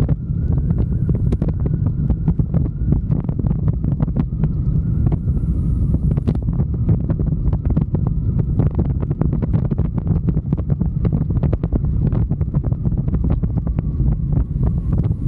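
Wind buffeting the microphone during a motorcycle ride: a steady low rumble with crackling.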